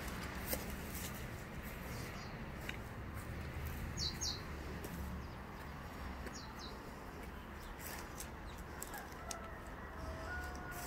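Outdoor ambience: a steady low rumble with scattered clicks, over which a bird gives two quick high chirps about four seconds in and again about two seconds later. A few fainter calls follow near the end.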